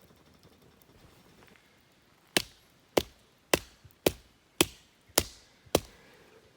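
Seven sharp, evenly spaced blows from a hand tool, a little under two a second, each with a short ringing tail, starting a little over two seconds in.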